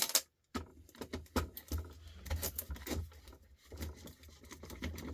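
Irregular small clicks and rattles of a screwdriver, screws and plastic housing parts being handled while an old electric sander is dismantled, with a sharp click at the start.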